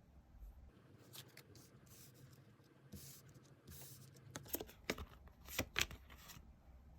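Tarot cards being handled and shuffled: quiet rustling and sliding of card stock, with several sharp snaps about two-thirds of the way in.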